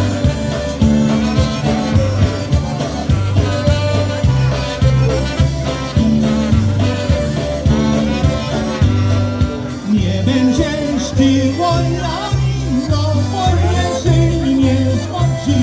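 Live polka band playing, with the bass alternating between notes on a steady beat under the melody.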